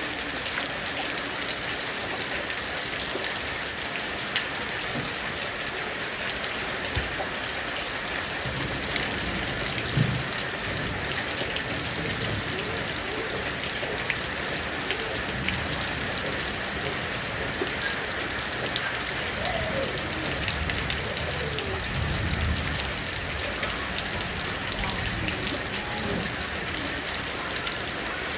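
Heavy rain falling steadily, with a dense patter of individual drops ticking on surfaces. Two brief low rumbles swell up about ten seconds in and again about twenty-two seconds in.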